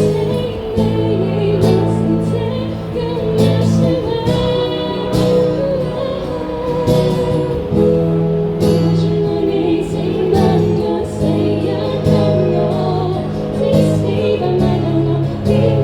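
Live band music: a singer over guitar and sustained low bass notes, with a steady beat of short strikes.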